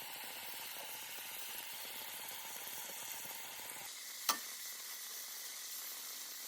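Chicken thighs frying in a pan in a little oil and their own rendered fat, a steady sizzle. A single sharp click about four seconds in.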